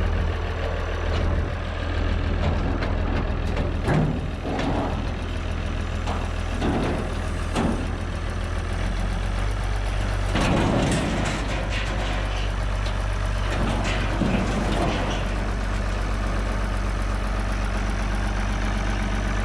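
International hydro loader tractor's engine running steadily under load as it lifts a chained-up grain bin, its low note changing slightly about nine seconds in. A few metal clanks come through on top.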